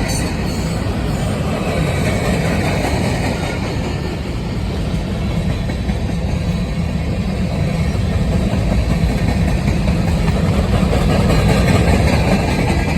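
Freight train passing close by: a steady, loud rumble of railcars rolling over the rails, with diesel locomotive engine sound underneath.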